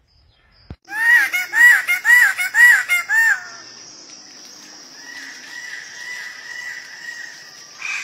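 A bird-of-paradise calling: a quick series of about six loud, arched calls over two seconds, then a steady high hiss with a faint wavering whistle behind it.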